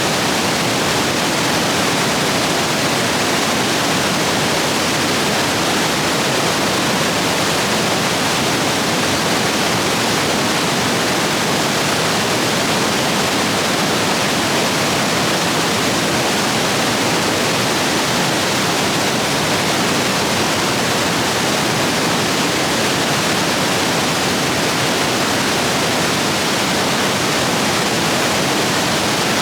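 Rain-swollen stream rapids rushing loudly and steadily over rocks.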